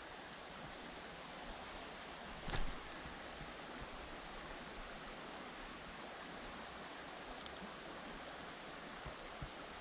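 Steady, high-pitched chorus of insects such as crickets, with one brief knock about two and a half seconds in.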